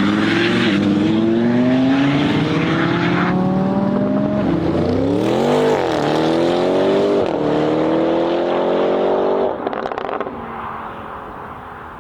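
Supercar engine accelerating hard and climbing in pitch through the gears. It changes gear about half a second in and again around four seconds, dips and rises sharply around five to six seconds, then lifts off about nine and a half seconds in with a brief crackle and fades away.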